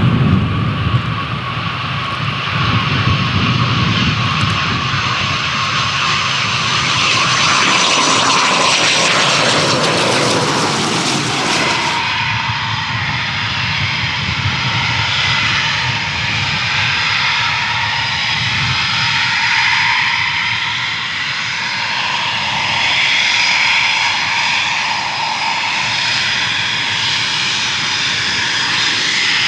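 Eurofighter Typhoon's twin EJ200 turbofans whining at approach power as it comes in to land. About twelve seconds in, the sound drops in pitch and loses its hiss as the jet goes past, then it carries on as a steadier whine.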